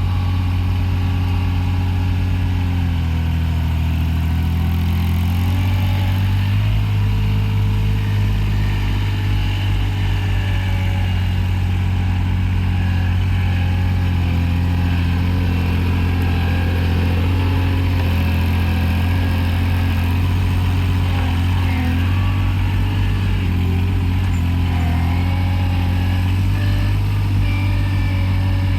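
Avant 423 compact loader's diesel engine running steadily, its pitch shifting a couple of times in the first several seconds as the engine speed changes.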